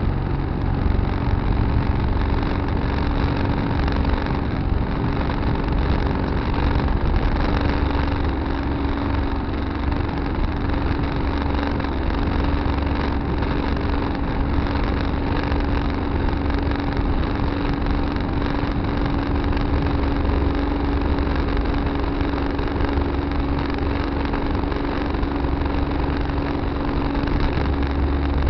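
Tractor engine running steadily at an even speed, with a constant low rumble and hum heard from a dash camera mounted on the tractor.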